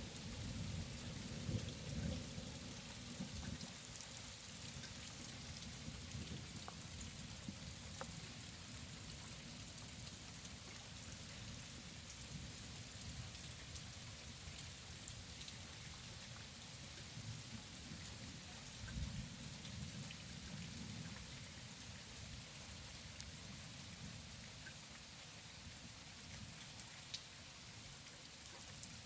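Steady rain falling, with scattered drops ticking on a surface. Low rumbles of thunder swell near the start and again about two-thirds of the way through.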